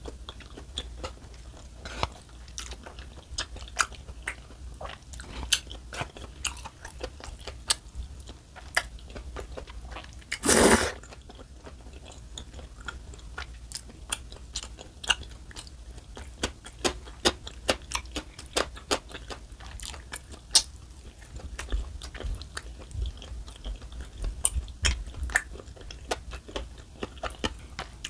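A person chewing rosé noodle tteokbokki close to the microphone with the mouth closed, with many small wet clicks and crunches throughout. One louder half-second rush of noise comes about ten seconds in.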